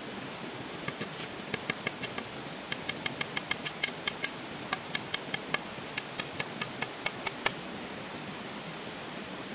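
A hammer tapping in quick irregular runs of light, sharp, slightly ringing strikes, about thirty in all, from about a second in until near the end, over a steady hiss.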